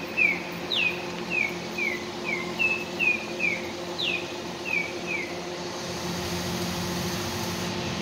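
Small songbird calling in a run of short down-slurred chirps, about two a second, with two higher swooping notes among them. The calling stops about five seconds in.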